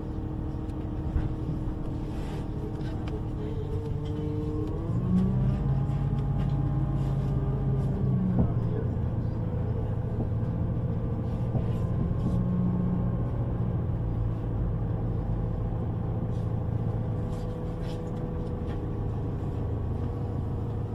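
A vehicle running, heard from on board, with a steady low rumble. About five seconds in, a motor whine rises in pitch and then holds steady, as when the vehicle pulls away and speeds up.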